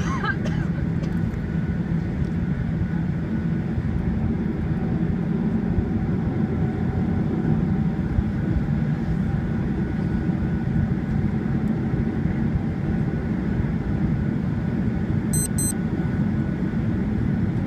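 Steady cabin rumble of a Boeing 737-800 taxiing on the ground with its CFM56 turbofan engines near idle, heard from a passenger seat, with a faint steady whine over the low roar.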